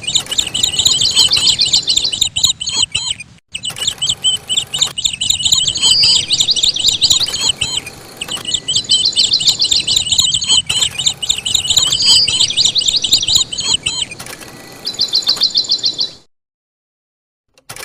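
Songbird singing high-pitched phrases over and over: a short clear whistled note followed by fast rapid trills. The song breaks off into sudden silence near the end.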